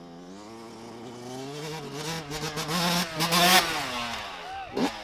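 Small four-stroke pit bike engine revving as the bike accelerates, rising to its loudest about three and a half seconds in, easing off, then a sharp quick rev near the end.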